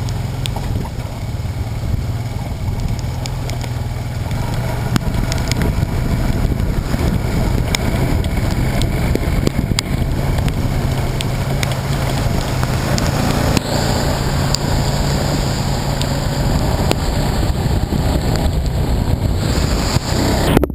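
A motor vehicle engine running steadily, with wind buffeting the microphone and scattered sharp ticks.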